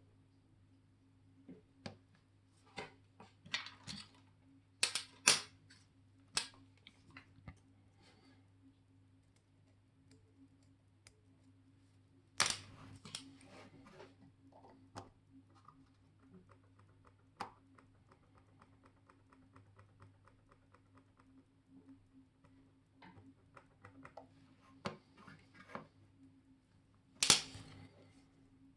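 Small clicks, taps and clacks of watchmaker's tools and metal parts being handled on a Molnija 3601 chronograph watch, irregular throughout, with louder clacks about five seconds in, around twelve seconds and near the end. A steady low hum runs underneath.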